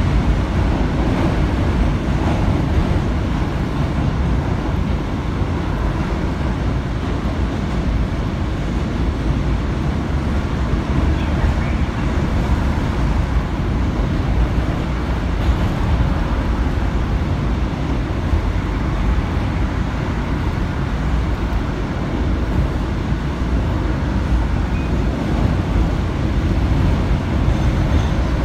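New York City subway train on the J line running steadily along the track: a continuous deep noise of wheels and motors, with no sharp changes.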